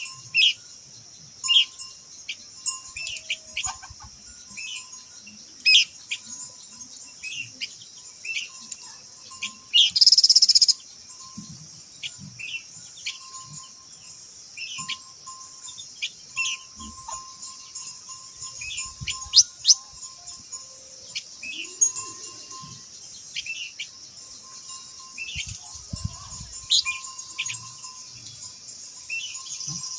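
Khướu lùn, a small babbler, singing short chirps and quick whistled notes repeated every second or so, over a steady high insect hiss. A brief, loud noisy burst comes about ten seconds in.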